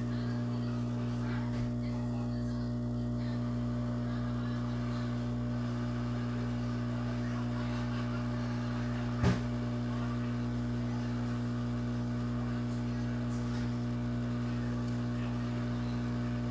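Low, steady electrical hum from running bench electronics equipment, with one light click about nine seconds in.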